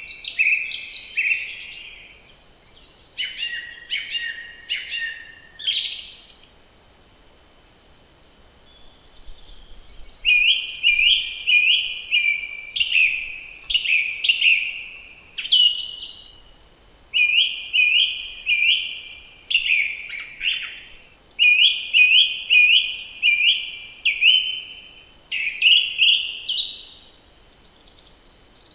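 Songbirds singing in spring. One bird repeats short phrases of four or five quick whistled notes every couple of seconds, and a few thinner, higher phrases come in between.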